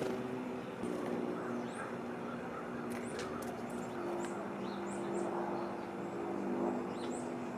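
Small birds chirping in short, high calls, over the steady hum of a nearby vehicle engine. A few sharp clicks stand out among the calls.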